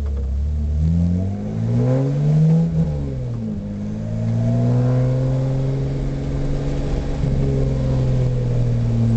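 BMW E30 325is straight-six engine heard from inside the car: the revs rise and fall a couple of times in the first three seconds, then hold fairly steady while the car drives on.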